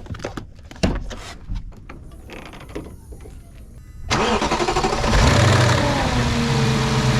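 A few clicks and knocks, then about four seconds in the Audi B6 S4's 4.2-litre V8 cranks and catches. It flares up and settles into a steady fast idle. The owner says this start-up has the chain sound he has begun to hear.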